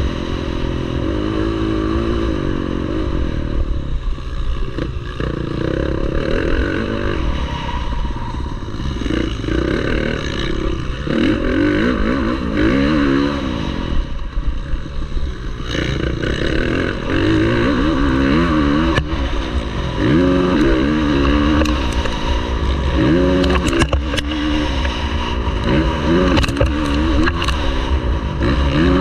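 Motocross bike engine revving hard and backing off again and again, its pitch climbing and dropping as it rides a dirt race track. A few sharp clatters come near the end.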